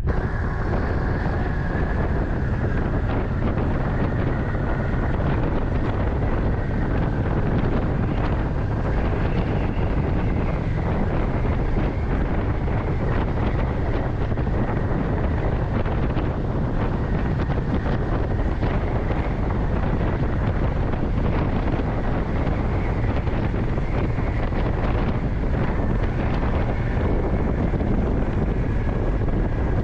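Steady rush of wind buffeting the microphone on a moving motorcycle, with the bike's running drone underneath.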